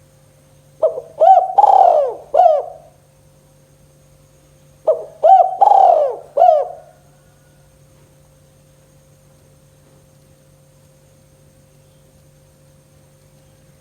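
Spotted dove (tekukur) cooing its 'kuk 2' song: two phrases of four notes each, about a second in and about five seconds in, over a faint steady hum.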